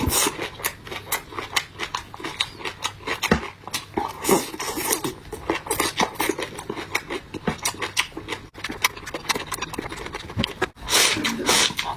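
Close-miked eating: chewing and crunching mouthfuls of soy-sauce-dressed raw vegetables, with many quick, irregular wet clicks and smacks, several a second.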